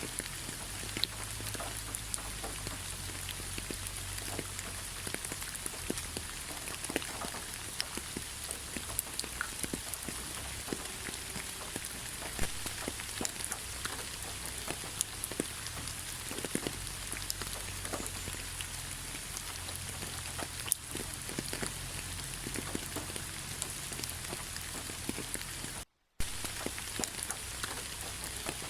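Steady rain falling, with many separate drops ticking close by over an even hiss. The sound cuts out completely for a split second near the end.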